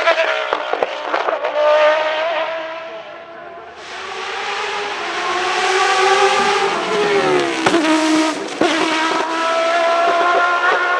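Judd GV4 4.0-litre V10 of a Dallara SP1 Le Mans prototype running hard at high revs. It fades and dulls briefly about three seconds in, then builds with rising pitch. Near eight seconds in the revs drop sharply with a few sharp cracks, then climb again.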